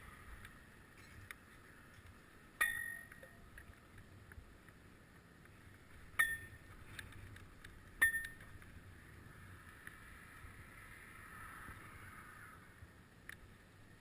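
Three sharp metallic clinks, each with a brief ringing tone, plus a few fainter ticks, over steady wind and riding noise.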